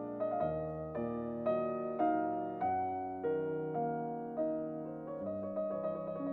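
Slow, gentle piano music, with a new note or chord struck about every half second and each one ringing and fading away.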